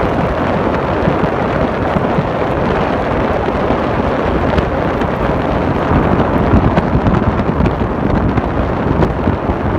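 Wind buffeting the microphone in a snowstorm: a loud, steady rushing rumble.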